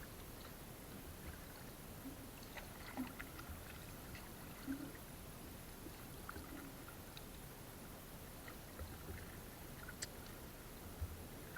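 Quiet water movement with scattered light knocks, clicks and a few soft low thumps, as when working a small boat and fishing net in the water.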